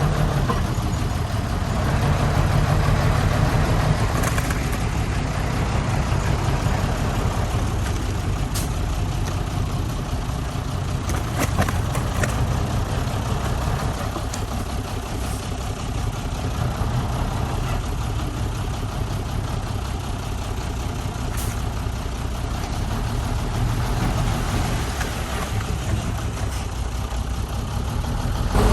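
Heavy diesel engine of earthmoving machinery running steadily at low revs, its level gently swelling and easing, with a few brief clicks.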